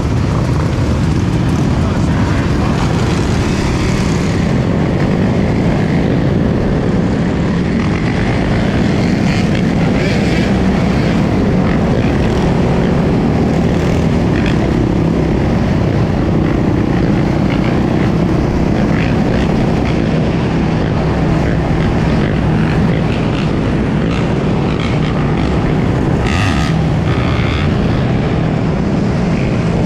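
Dirt bike engines running steadily during a ride, a dense, continuous rumble.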